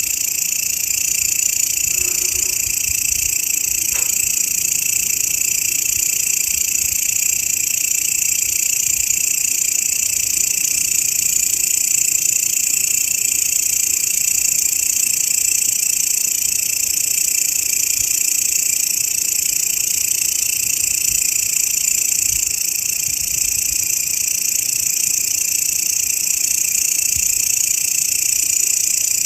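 Grasshopper stridulation: a continuous, high-pitched, unbroken insect buzz.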